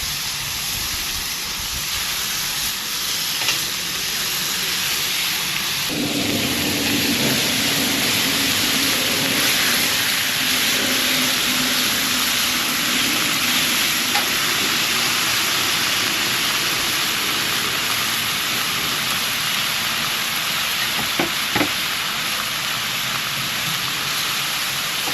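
Food sizzling steadily on a hot portable grill, a continuous hiss that grows a little louder about six seconds in.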